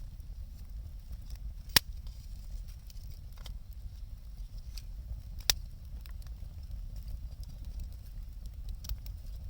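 Wood fire crackling, with two sharp pops from the burning wood, the louder one about two seconds in and another about five and a half seconds in, over a steady low rumble.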